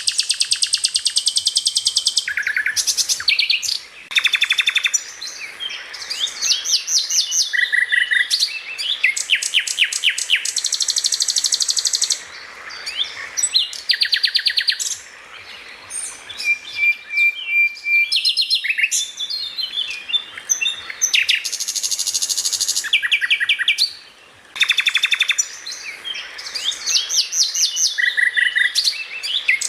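Songbird singing loud, high-pitched rapid trills and varied chattering phrases in a continuous run, broken by brief pauses about twelve and twenty-four seconds in.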